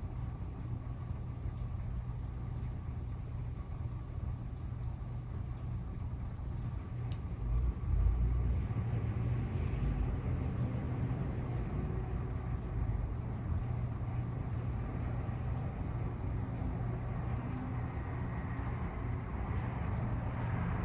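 Steady low rumble of a motor vehicle, swelling briefly about eight seconds in and growing a little louder near the end.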